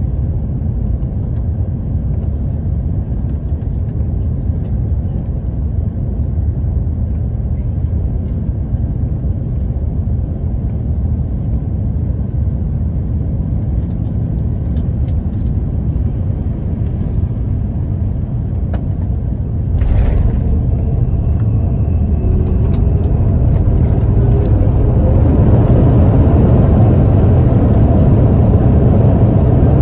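Cabin noise of an Airbus A350-900 on landing: a steady low rumble, then a sudden jolt about two-thirds of the way through as the wheels touch down. After it the Rolls-Royce Trent XWB engines and runway rumble grow louder, as with reverse thrust on the landing roll.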